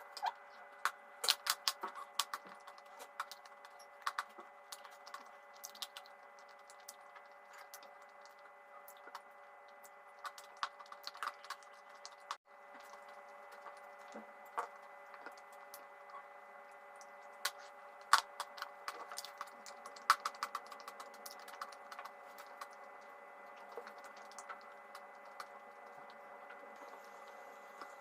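Chalk being bitten and chewed: sharp, irregular crunches and clicks throughout, over a faint steady hum, with a brief break about halfway.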